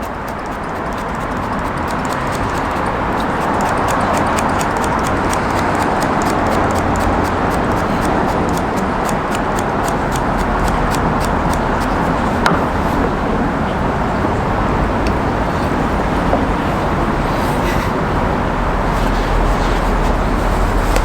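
Olive oil being sprayed onto a raw chicken from a sprayer bottle: a steady rushing hiss, with the bottle's trigger clicking several times a second for roughly the first half.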